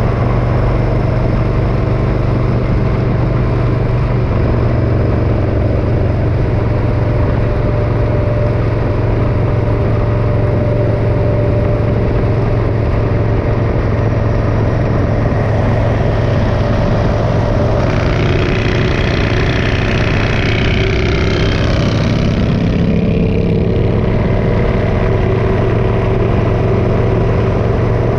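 Motorcycle engine running steadily, with a strong low hum. A higher hiss swells for several seconds in the middle and then fades.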